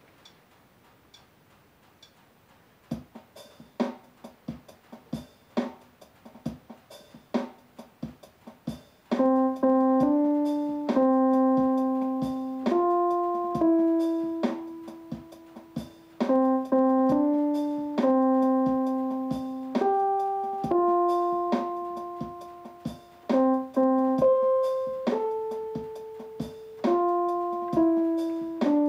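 Keyboard played with a piano sound. Nearly the first third is only light, spaced percussive ticks. About nine seconds in, loud sustained chords come in and change every second or two in a repeating progression, with the ticks going on beneath them.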